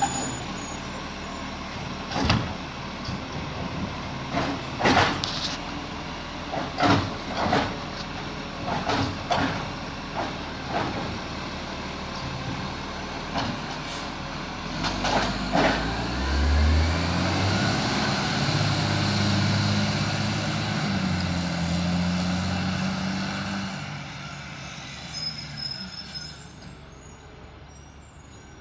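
Garbage truck emptying a wheelie bin: a string of sharp clunks and bangs as the bin is lifted, shaken out and set down. After that the truck's diesel engine revs up and it pulls away, fading out.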